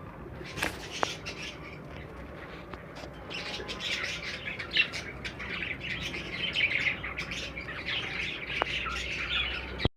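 A flock of small aviary birds chattering and squawking, many short overlapping chirps that grow denser a few seconds in.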